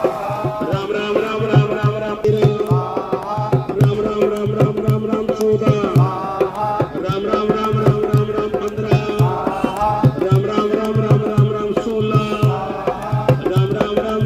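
Devotional music: voices chanting a melody over a tabla keeping a steady rhythm, with a sustained drone underneath.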